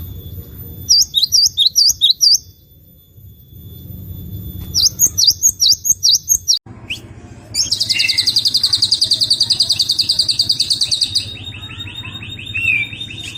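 Songbird recordings: two runs of sharp, rapidly repeated high chirps, then after an abrupt cut a long, fast, buzzy trill that gives way to a lower rattling series. The calls are played as masteran, bird song used to teach captive songbirds new phrases.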